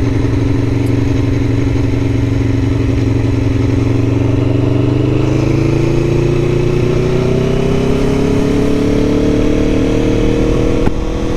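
Aprilia Tuono motorcycle engine under way, at first holding a steady pitch, then rising slowly through the second half as the bike accelerates. Near the end the pitch drops.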